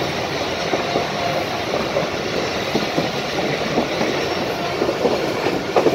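Khyber Mail passenger train running along the track, heard from on board: a steady rumble of wheels on rails with irregular clicks and clatter.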